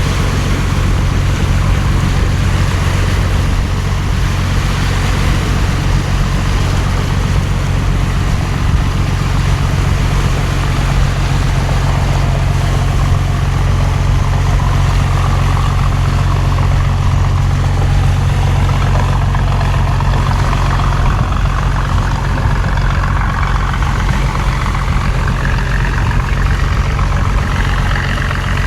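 Steady low engine drone, idling, with an even hiss of heavy rain over it.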